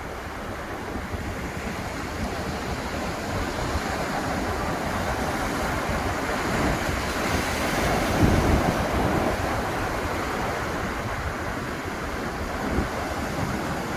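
Atlantic surf washing onto the beach in a steady rush, swelling to a louder break a little past halfway through.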